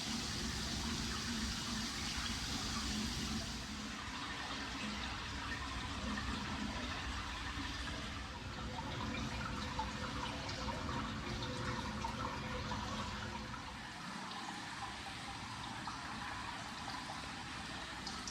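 Hot-spring water pouring steadily into a bath and splashing, slightly brighter and hissier for the first few seconds.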